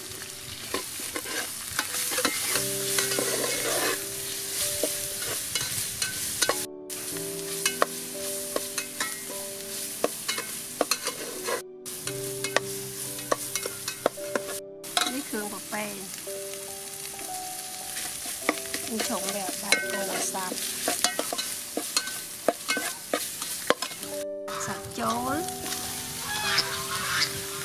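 Spice paste frying in oil in an aluminium pot, sizzling and crackling as a metal ladle stirs and scrapes it round the pot. Near the end, pieces of goat tripe are tipped into the hot paste.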